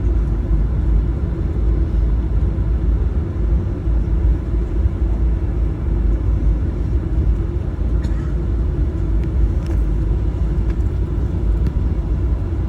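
Steady low rumble inside the cabin of a Boeing 737-900 as it taxis, from its CFM56-7B engines at idle and the rumble of the wheels rolling, with a few faint clicks.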